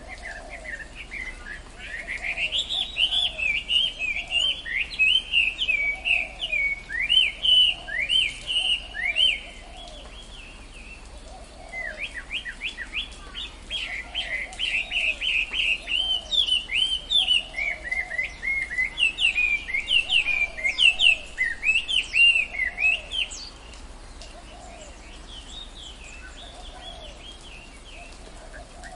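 Birdsong: a rapid run of sweeping chirps in two long bouts with a short pause between, over a lower call repeated about once a second.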